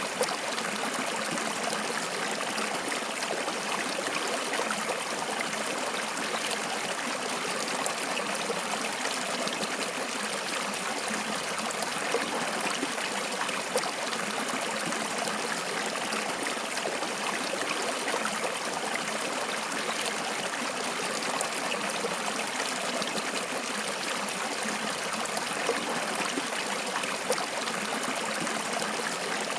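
Stream water flowing and trickling steadily, with small splashes now and then.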